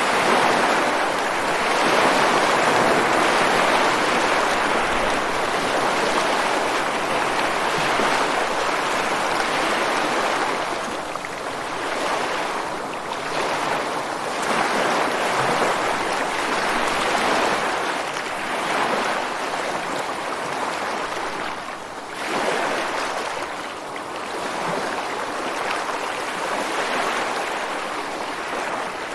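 Ocean waves breaking and washing over rocks along the shore, a continuous rushing surf that swells and eases every few seconds.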